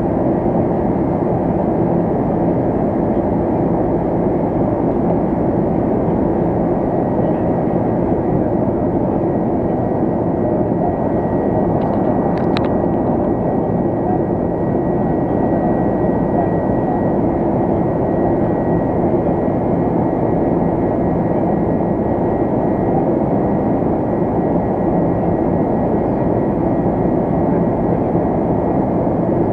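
Steady engine and airflow noise inside the cabin of an Airbus A330-200 in its climb, with a single sharp click about twelve seconds in.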